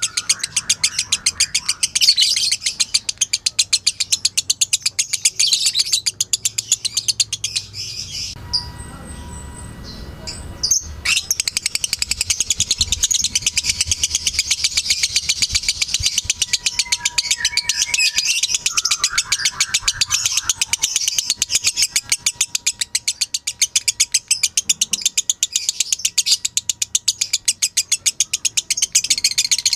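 Lovebird ngekek: a long, rapid chattering trill of high chirps, broken off for about three seconds about a third of the way in.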